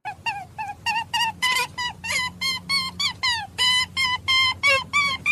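A rapid series of short, pitched animal calls, about four a second, over a steady low hum; the calls stop abruptly at the end.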